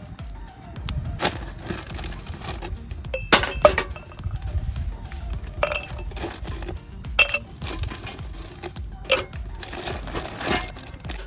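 Hard objects clinking and knocking together, a dozen or so sharp strikes with short ringing, over background music.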